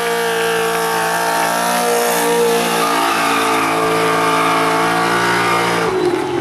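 Drift car engine held at high revs at a nearly steady pitch for about six seconds, with tyre hiss underneath, then the note drops as the throttle comes off near the end.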